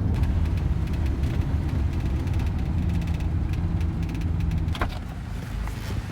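Box truck driving, its engine and road noise a steady low rumble heard from inside the cab; the rumble eases a little about five seconds in.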